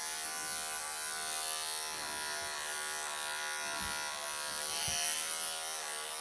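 Wahl electric pet clippers running with a steady buzzing hum while clipping a Persian kitten's coat, with a few soft knocks from handling.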